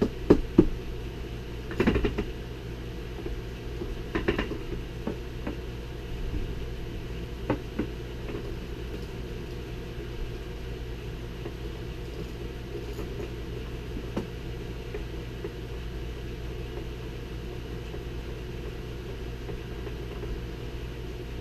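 Sharp metal knocks and clinks as a differential bearing cap and other parts are set onto the cast differential case, several in the first few seconds and then scattered single ones. Under them runs a steady low hum.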